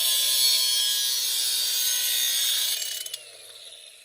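Angle grinder cutting through metal: a loud, steady hissing grind over the motor's whine. About three seconds in the disc comes off the work and the whine winds down.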